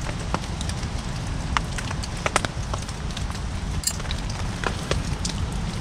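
Scattered, irregular drips and taps of rainwater falling on a tarp and gear, over a steady low rumble.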